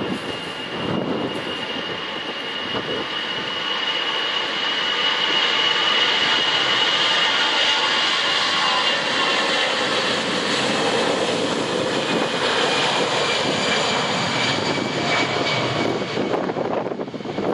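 Airbus A320-214's twin CFM56 turbofan engines at takeoff power: a loud jet roar that builds over the first several seconds and then holds steady, with a high fan whine that slowly drops in pitch as the airliner goes past.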